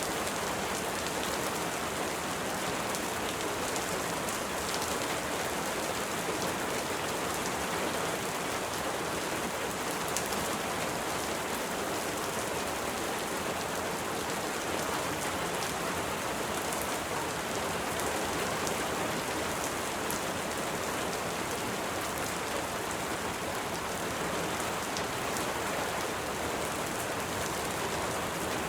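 Steady rain falling: an even, unbroken hiss with fine ticks of individual drops.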